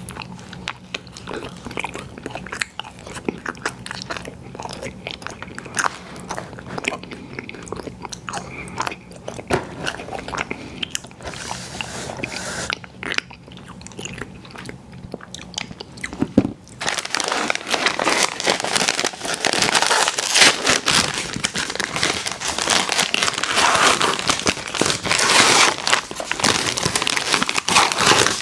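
Close-miked biting and chewing of food, with softer bites and chews at first and much louder, denser crunching from a little past halfway.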